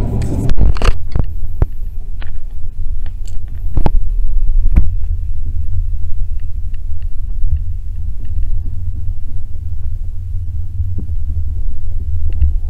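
A train running: a heavy low rumble with scattered sharp clicks and knocks, the knocks thickest in the first few seconds.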